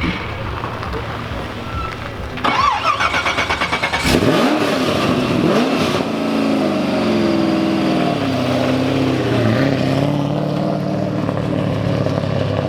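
A car engine cranking on its starter with a rapid pulsing, catching about four seconds in with a rev. It then settles into a running idle whose pitch rises and dips.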